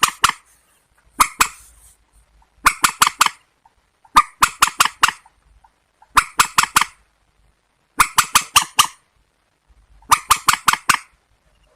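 Calls of a waterbird of the rail family: harsh, rapid notes in bursts of three to six, repeated about every one and a half to two seconds.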